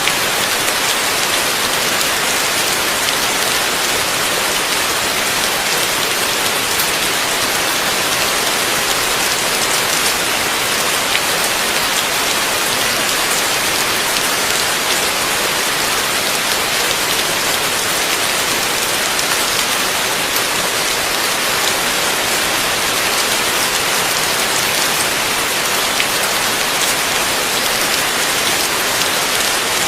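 Heavy rain falling steadily, a dense, even hiss of drops with fine crackles of individual drops striking a surface, no thunder.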